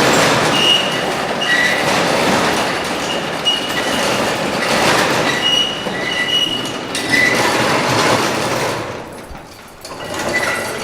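Metal roll-up shop door being raised, its slats rattling in a continuous clatter with repeated high-pitched squeals. It dies down about nine seconds in.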